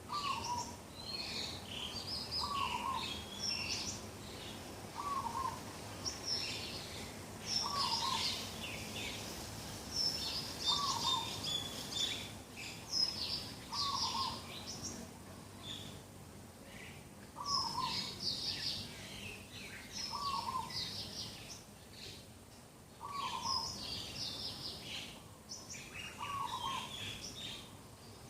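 A morning chorus of several birds. One bird repeats a short, low call about every two and a half seconds, while others chirp and trill rapidly in a higher register.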